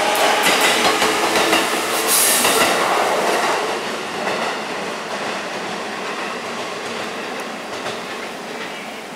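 Train running along the platform track, wheels clattering over the rail joints. It is loud at first and fades steadily over the last several seconds as the train draws away.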